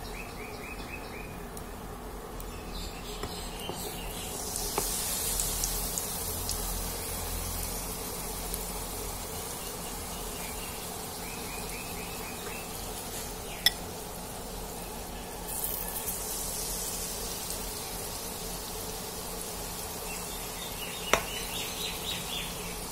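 Batter-coated night jasmine leaves frying in hot oil: a steady sizzle that swells twice, about five seconds in and again about fifteen seconds in. Two sharp clicks come in the second half.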